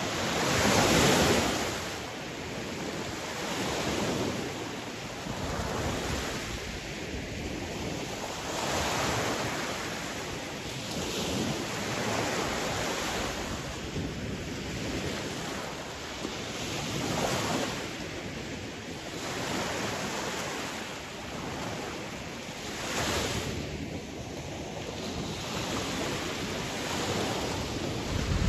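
Sea waves washing onto a shore, a steady surf noise that swells and falls back every two to three seconds, the loudest surge about a second in.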